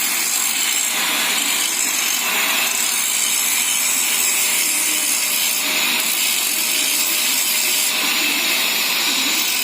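A boring machine reboring a cylinder of a Mitsubishi 4G13 engine block oversize to take larger 4G15 pistons. It makes a steady, hissing cutting noise with a faint steady whine under it, and cuts off suddenly right at the end.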